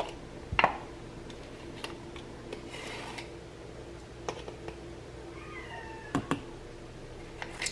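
Quiet room sound with a few scattered sharp clicks and one short, falling animal-like cry about five and a half seconds in.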